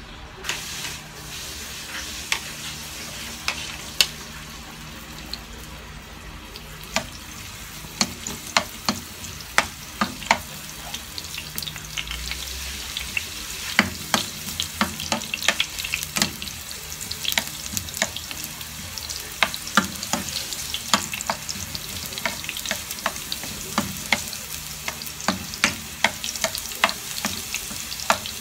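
Oil sizzling in a nonstick wok as food fries, with a spatula stirring and tapping against the pan in many sharp clicks, more often in the second half.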